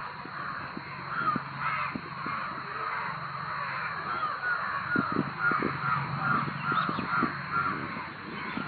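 A crowd of crows cawing loudly, many calls overlapping at once, with a quick run of short, evenly spaced caws, about two a second, in the middle.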